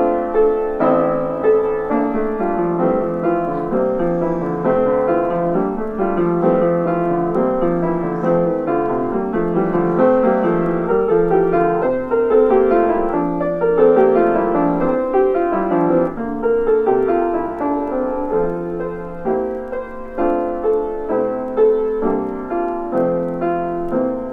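Solo piano music: a gentle, flowing run of notes.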